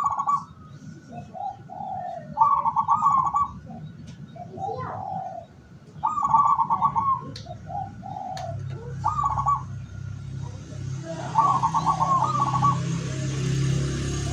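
Zebra dove (perkutut) cooing, a repeated phrase of a low gliding note and then a fast stuttering trill, about five times. A steady low hum joins about halfway through.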